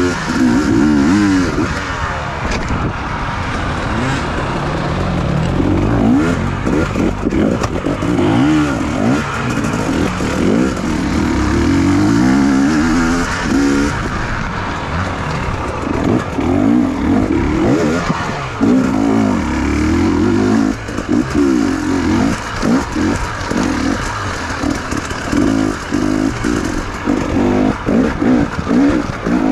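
Enduro motorcycle engine heard close up from on the bike, revving up and falling back over and over as the throttle is opened and closed through the gears. Near the end it comes in quick short blips.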